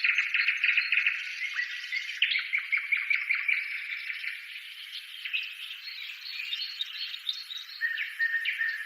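Birds chirping and trilling in a dense chorus of short, overlapping high notes and quick runs, with no low sound at all.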